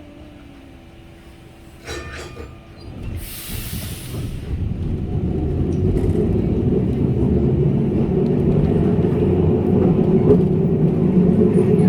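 Christchurch heritage tram pulling away from a stop: a sharp knock about two seconds in, a burst of air hiss for about a second just after, then the rumble of the wheels and motor building steadily as it gets under way.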